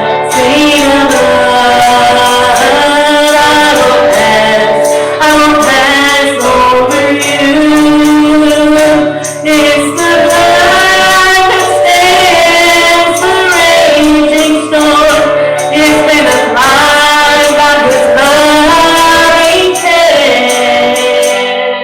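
Congregational worship singing, led by women's voices, over instrumental accompaniment.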